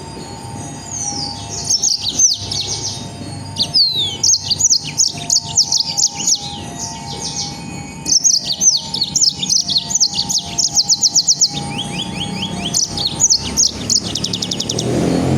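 Songbird singing loud bursts of sharp, high, down-slurred notes and rapid trills, delivered in fast rapid-fire runs with short pauses between them. This is the dense 'nembak' (shooting) song that Indonesian keepers use as master song for training other birds.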